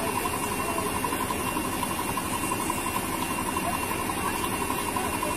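Steady low rumble of idling vehicle engines, with a faint fast-pulsing tone running over it.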